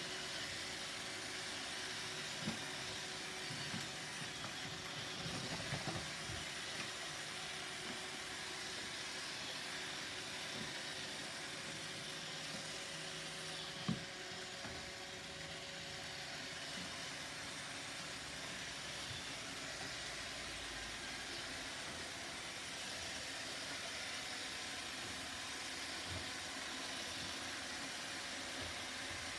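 Roomba robot vacuum running steadily, with a few short knocks, the sharpest about halfway through.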